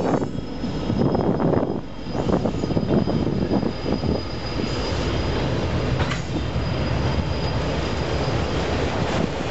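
Union Pacific freight train rolling past, its wheels and cars rumbling steadily on the rails, with a thin high wheel squeal held through most of the time and fading near the end.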